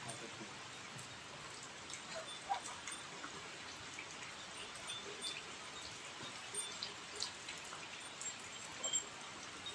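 Rain falling: a steady soft hiss dotted with irregular drips and taps, the sharpest about two and a half seconds in and near the end, with a few brief high chirps.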